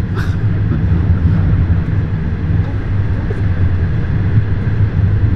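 Steady, loud, low rumble of a moving vehicle heard from inside, with a deep hum and a brief click about a fifth of a second in.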